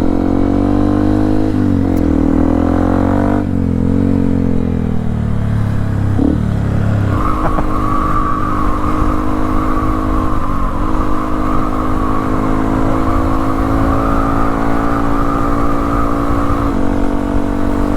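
Yamaha WR155R's single-cylinder engine on the move, its note rising and dipping through the first several seconds as road speed changes. About seven seconds in it settles into a steady, higher cruising note.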